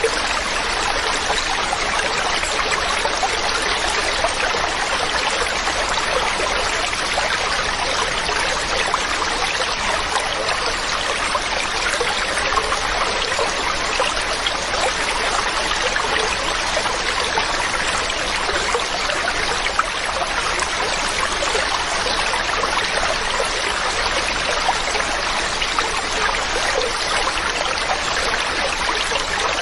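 A mountain stream running steadily over rocks, a continuous rushing and babbling of water with no pauses.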